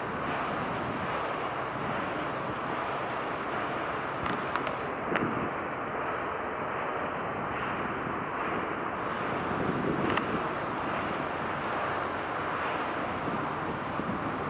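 Steady outdoor background noise, a wind-like hiss with a distant rumble in it, broken by a few brief faint clicks about four, five and ten seconds in.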